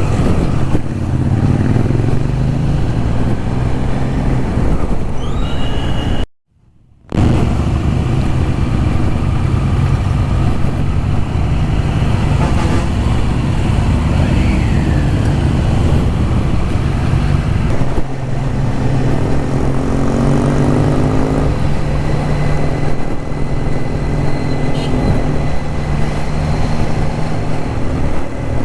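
Triumph Trident 660's inline three-cylinder engine running at steady cruising speed under a constant rush of road noise. The sound cuts out completely for about a second around six seconds in.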